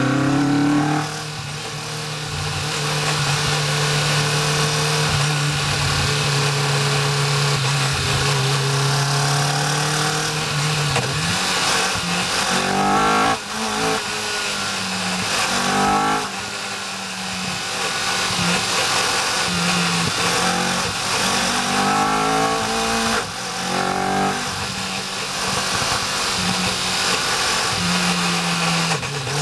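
Caterham R400 race car engine heard from its open cockpit, pulling at moderate speed. It holds a steady note for the first several seconds, then the revs rise and fall several times as the car accelerates and lifts off.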